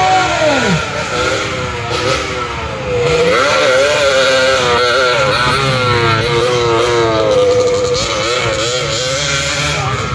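Several motocross dirt bike engines revving hard, their pitch rising and falling with each throttle change and overlapping one another.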